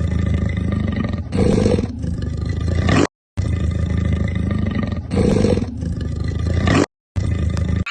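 A recorded animal roar sound effect, the same clip played back to back three times, each one cutting off abruptly.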